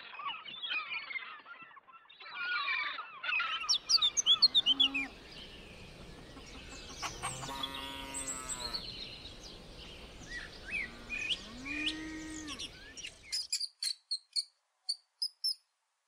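Gulls calling for the first few seconds, then a Holstein cow mooing twice, the second moo rising in pitch. Near the end a small rodent gives a quick series of short, high squeaks.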